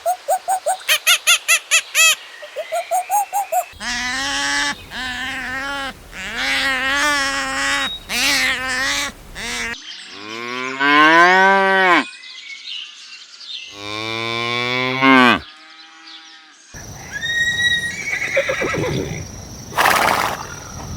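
A run of farm animal calls one after another, the clearest being two long cow moos, each falling in pitch, about halfway through. They follow quick pulsed calls at the start and a string of shorter wavering calls, and give way to noisier animal sounds near the end.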